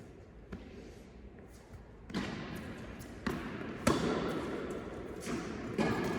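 Tennis ball impacts on an indoor court: several sharp knocks, the loudest about four seconds in, with voices talking from about two seconds in.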